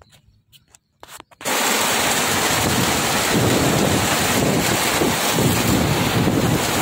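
A few faint clicks, then about a second and a half in a loud, steady rushing noise starts abruptly and keeps on, with a rough pulsing rumble underneath, like heavy rain.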